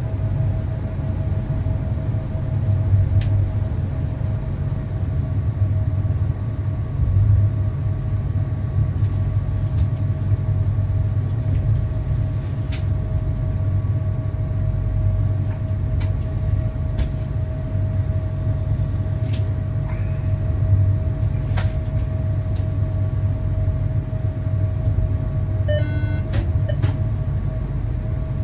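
Electric train running along the track, heard from the driver's cab: a steady low rumble with a constant hum above it and scattered sharp clicks. About two-thirds of the way through, a short run of quick, evenly spaced ticks.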